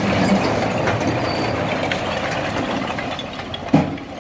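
An engine running, with scattered clatter and one sharp knock near the end.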